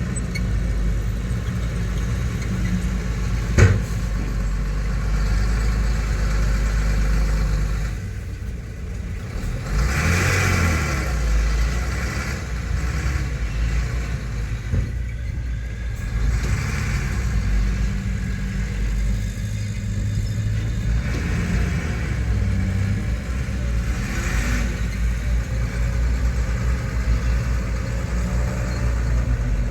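Heavy earthmoving machine's engine running steadily, swelling louder several times as it works under load, with one sharp knock a few seconds in.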